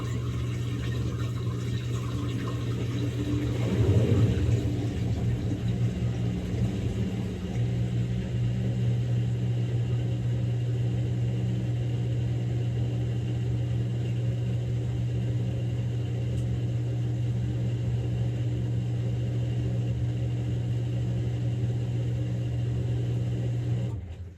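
Samsung Grande washing machine running its quick-wash cycle with a steady low hum and rumble, swelling briefly about four seconds in, then winding down and stopping near the end.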